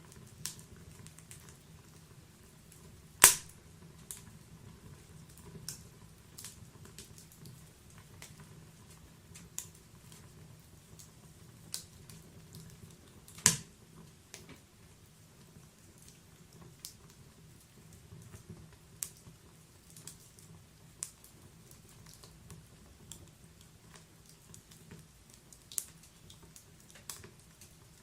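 Logs burning in a wood fireplace, crackling with scattered sharp pops and ticks over a low, steady rumble of flame. Two pops are much louder than the rest: one about three seconds in and one near the middle.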